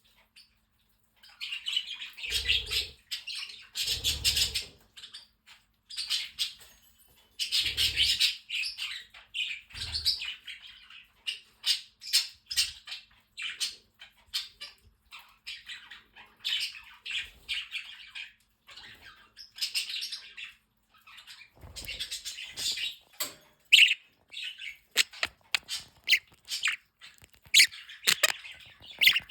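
A flock of small pet parrots (budgerigars, with cockatiels and parrotlets among them) chattering, warbling and chirping in rapid overlapping bursts, with occasional squawks. A few dull thumps sound under the chatter, about four times.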